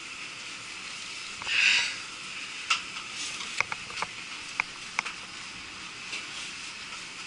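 Sharp metallic clinks and taps of tools and fasteners on cooling-tower fan hardware, about half a dozen between roughly two and a half and five seconds in, some with a short ring. Before them comes a brief rushing scrape, the loudest sound here, all over a steady hiss.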